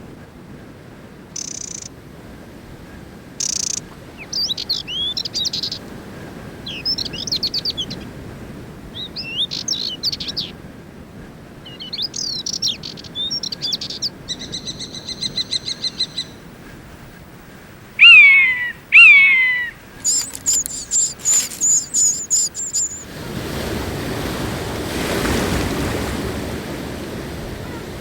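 Several kinds of wild birds calling and singing in turn: short high chirps, quick twittering phrases, a buzzy call, two loud falling calls and a rapid string of high notes. About two-thirds of the way in, the birds give way to the steady wash of sea surf.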